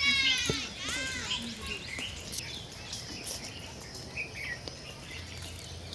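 Birds calling in the trees: two calls with many overtones, each rising and then falling in pitch, in the first second or so, followed by scattered short chirps over faint steady background noise.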